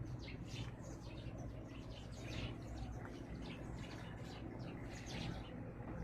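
A flock of house sparrows chirping: many short, high chirps overlapping several times a second, over a steady low hum.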